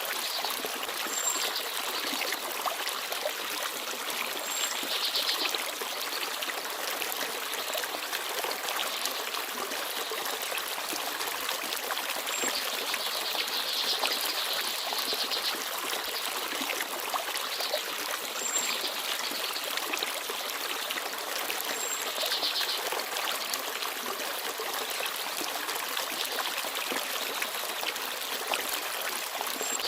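Small forest stream babbling steadily, with a few brief high chirps from small birds scattered through.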